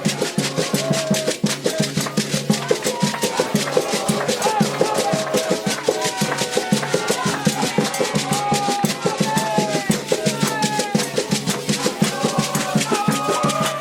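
Candomblé ritual music: fast, steady hand-drumming on atabaques with shaken rattles, and voices singing a chant over the drums.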